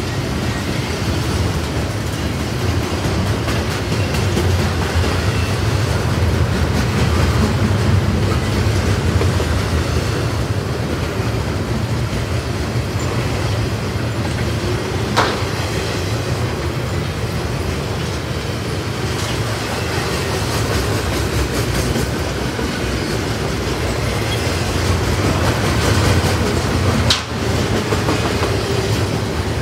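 Double-stack intermodal freight train's well cars rolling past close by: a steady low rumble of steel wheels on the rails, with a single sharp knock about halfway through.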